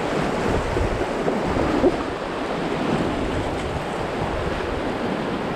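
Whitewater rapids rushing steadily around a raft on the Arkansas River, with wind rumbling on the microphone.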